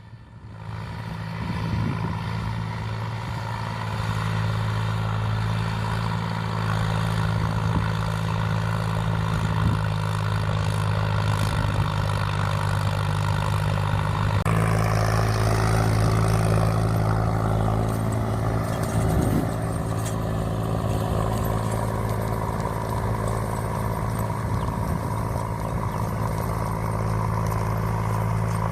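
Tractor engine running steadily as it ploughs a paddy field, a low even hum, with an abrupt shift in the sound about halfway through.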